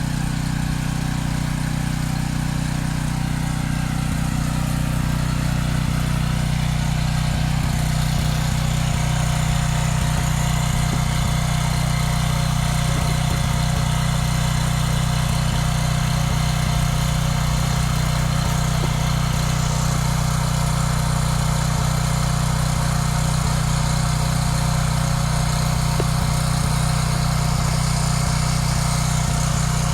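An engine running steadily at an even speed, getting slightly louder over the first several seconds and then holding constant.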